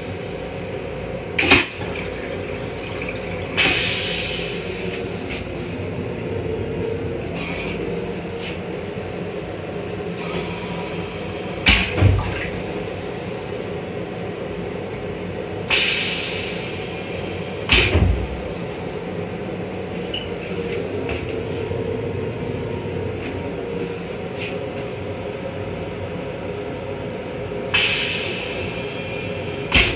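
Steady running noise of a Long Island Rail Road M7 electric railcar heard inside its small restroom, with sharp knocks now and then and a short hiss about every twelve seconds.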